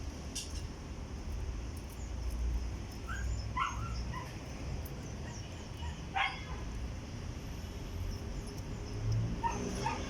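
A dog barking and yipping a few times in short calls, the loudest about six seconds in, over a steady low rumble.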